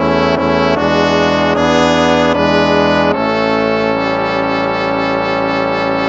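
Instrumental hymn played in brass-toned chords, moving chord to chord about once a second, then settling on a long held final chord about halfway through.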